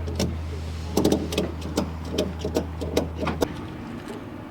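Vehicle engine idling with a steady low hum that cuts off suddenly about three and a half seconds in. Over it comes a run of sharp clicks and knocks, roughly two or three a second.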